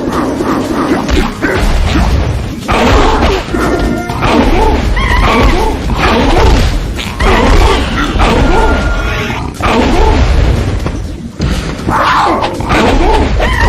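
Dramatic soundtrack music mixed with booming impacts and crashes, like a film action scene, dense and loud with brief dips.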